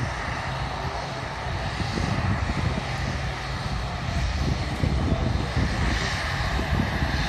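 Airliner engine noise at an airport, a steady roar with a faint whine, mixed with heavy wind buffeting the microphone as a gusty low rumble.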